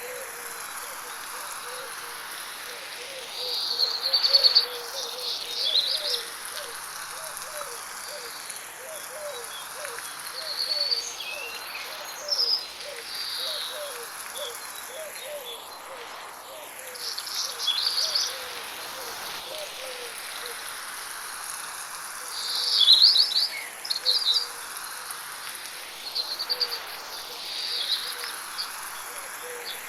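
Birds chirping and singing in short phrases over the steady hiss of light rain, with a constant high insect buzz behind them. The sound is processed as 8D audio, sweeping around the head.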